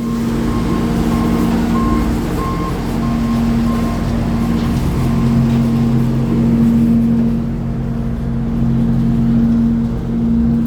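Sawmill machinery running with a steady low hum. In the first few seconds a reversing alarm beeps repeatedly over it.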